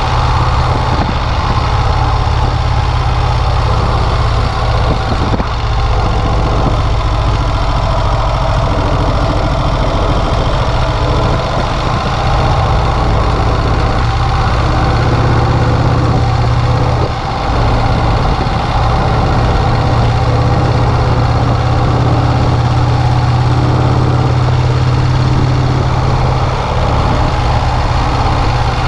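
1951 Vincent Rapide's 998 cc V-twin engine running steadily while the motorcycle is ridden. The engine sound eases briefly a little past halfway, then picks up again.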